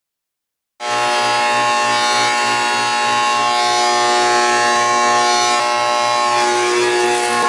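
Trane XL14i condensing unit running with a loud, harsh, steady buzzing hum made of many tones, over a low throb that pulses about four times a second. It cuts in suddenly under a second in. The fault behind the noise, diagnosed later in the video, is a bad condenser fan motor, not the capacitor.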